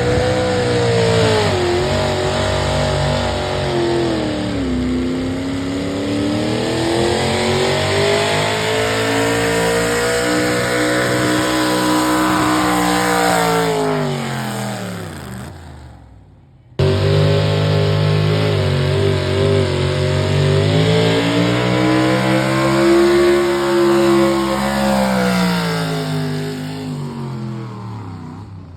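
Pickup truck engine at full throttle pulling a sled, its revs swinging up and down, then fading out. After a sudden cut, a second pull follows with the same rising and falling revs, fading again near the end.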